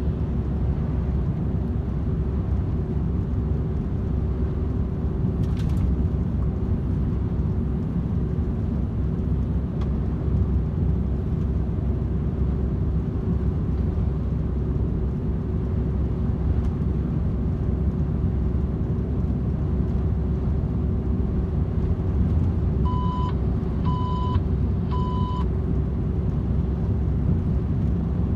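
DAF XF 510 truck cruising at motorway speed: a steady low drone of engine and road noise with an even hum running through it. Near the end come three short electronic beeps about a second apart.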